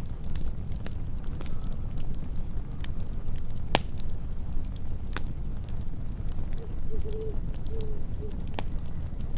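Campfire burning with a steady low rumble and scattered sharp crackles and pops, the loudest about four seconds in, over crickets chirping in short, evenly repeated chirps. A few short low calls come in around seven to eight seconds.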